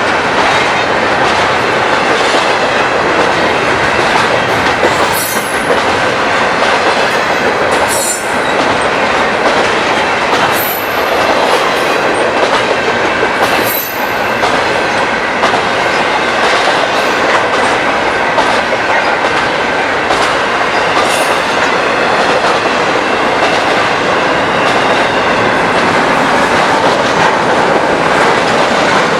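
Railroad cars rolling steadily past at close range, the wheels clicking over the rails, with brief high wheel squeals a few times.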